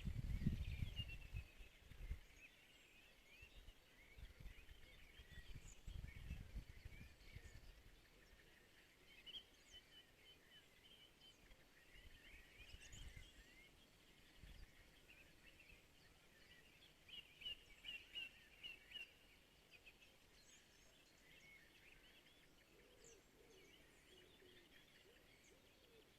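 Faint birds chirping and singing in the distance, with a short run of louder calls about seventeen seconds in. Low rumbles come and go during the first several seconds and again around thirteen to fifteen seconds.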